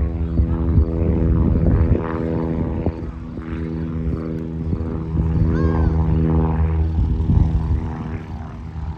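Light single-engine piston airplane's propeller engine running steadily, a droning hum with an even stack of tones. A brief high chirp sounds about five and a half seconds in.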